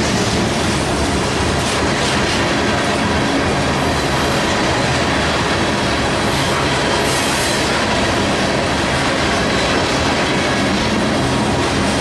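Freight train rolling past close by, a steady loud rumble of wheels clattering over the rail joints.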